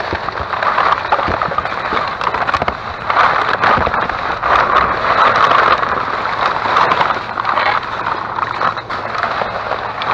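Plastic garbage bag rustling and crinkling while loose coffee pods are rummaged through and knocked together, a dense crackle of many small clicks.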